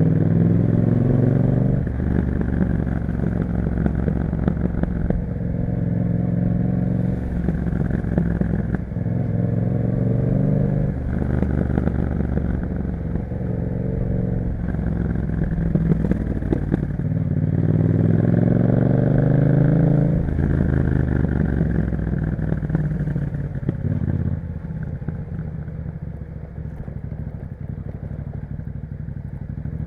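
2021 Yamaha MT-07's parallel-twin engine through an Akrapovic exhaust, accelerating through the gears: the pitch climbs and drops back at each upshift, several times over. After about twenty seconds the revs fall away and the engine settles into low, steady, quieter running.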